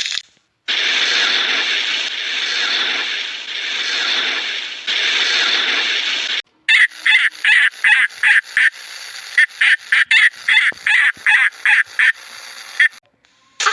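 Animal calls: first a dense wash of sound for about six seconds, then a fast run of short repeated calls, about three a second.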